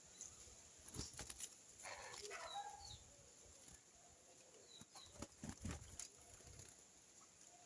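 Faint sounds of small birds at a feeding tray: a few short high chirps and a gliding call, with brief wing flutters and taps about a second in and again around five to six seconds.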